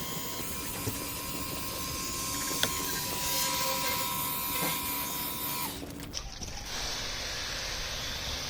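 Ryobi cordless pressure washer spraying in rinse mode: a steady electric motor whine under the hiss of the water jet. It cuts off suddenly about six seconds in, as the trigger is released.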